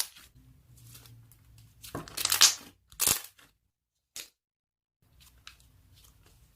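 Slime being squished and pressed by hand, making crackling, crinkly pops a few times, loudest about two and three seconds in. The sound drops to dead silence for a moment near the middle.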